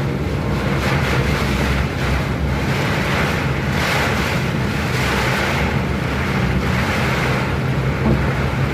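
Steady rushing noise of heavy rain, with a low steady hum underneath.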